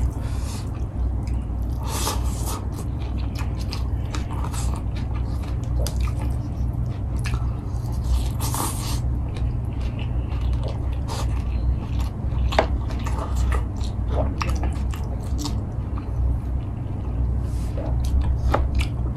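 A person chewing a mouthful of food close to the microphone, with irregular wet mouth clicks and occasional crunches, over a steady low hum.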